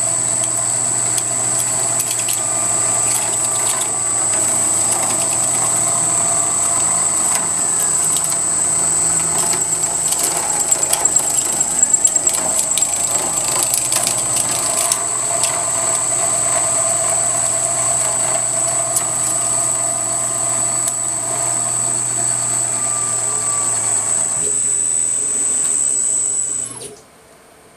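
CNC milling machine's belt-drive spindle running a light, low-RPM finish cut: a steady high whine over the machine hum, with a spell of sharp cutting ticks around the middle. Spindle and machine stop suddenly near the end as the program finishes.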